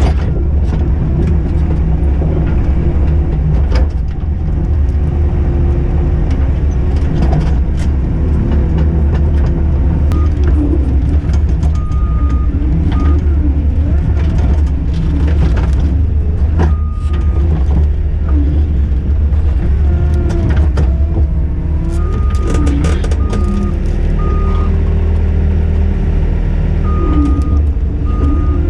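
Skid steer's diesel engine running steadily under work, with its backup alarm beeping in short runs several times and occasional knocks and clanks.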